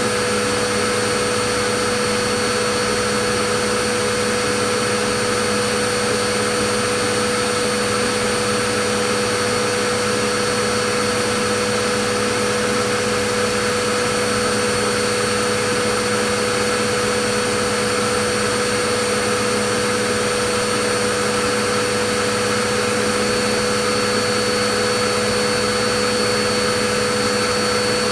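Vacuum cleaner motor running continuously: a steady whooshing hiss with a constant whine of several fixed pitches, unchanging in level.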